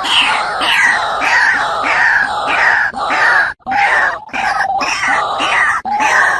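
White-breasted waterhen (ruak-ruak) calling: a loud run of harsh notes, each falling in pitch, about two a second, with a brief break about three and a half seconds in.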